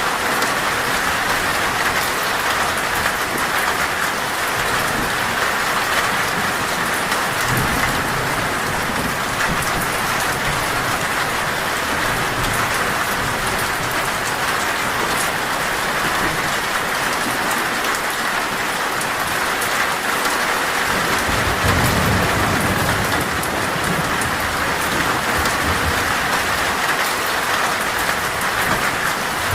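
Heavy rain falling steadily on a metal roof, with low thunder rumbling about seven seconds in and again after twenty seconds.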